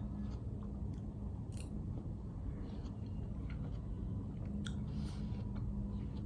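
A person chewing food close to the microphone, with a few light clicks, over a steady low hum.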